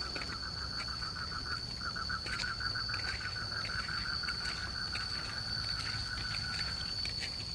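Night insects calling: a steady high-pitched drone, with a rapid pulsing trill beneath it that breaks off briefly about two seconds in and stops near the end.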